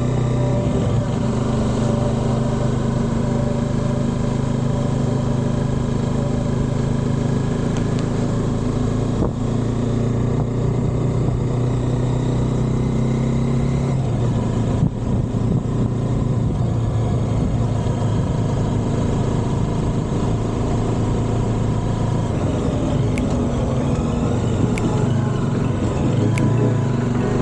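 Motorcycle engine running steadily while riding, with a change in its pitch about halfway through and some wavering in pitch near the end.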